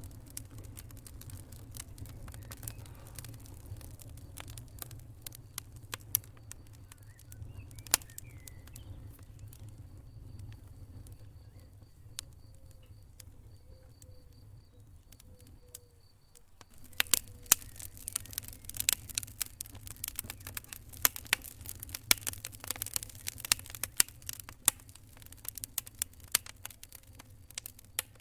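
Wood fire crackling, with sharp pops scattered over a low steady rumble of the flames; about two-thirds of the way through the crackling becomes much denser and louder.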